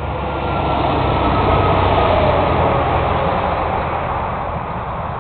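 Highway traffic noise heard from a moving car: tyre and engine rumble with a rushing hiss that swells to a peak about two seconds in, as a vehicle passes close by, then eases off.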